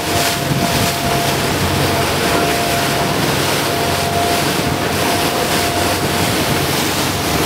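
Tour boat's engine running steadily, with a thin steady whine, under wind on the microphone and the sea washing against the hull.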